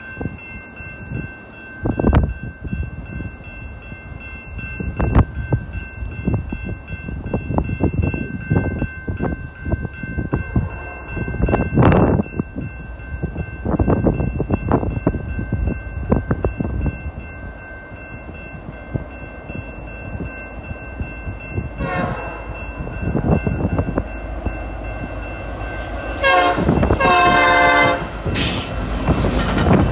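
CN train passing, its wheels knocking and clattering over the rails, with a steady high-pitched ringing during the first half. Near the end, the locomotive horn sounds a short note and then a loud, longer blast.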